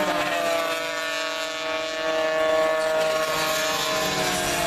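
Classic Grand Prix racing motorcycle engine held at high revs as the bike goes through a corner, a steady high-pitched note that drops slightly near the end.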